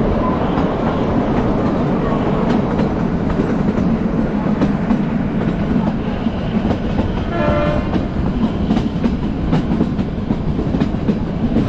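Narrow-gauge Kalka–Shimla toy train coaches running along the track at low speed, heard from the side of a moving carriage: a steady rumble and rattle with the wheels clicking over rail joints. A brief pitched tone sounds about halfway through.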